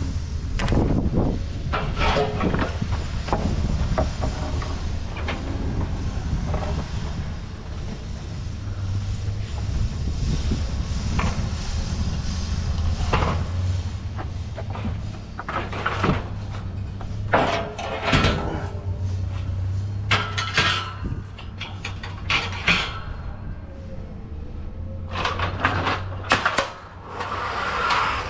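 An engine idling with a steady low hum, with irregular knocks, clunks and rattles of pallet loading on top.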